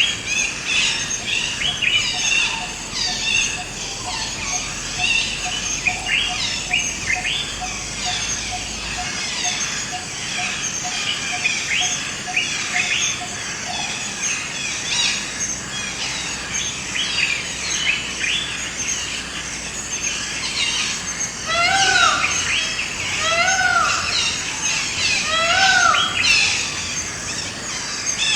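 A dense chorus of forest birds chirping and calling. For the first half, one bird repeats a low note at an even pace, about two or three a second. Near the end, three louder arching calls sound, about two seconds apart, each rising and falling.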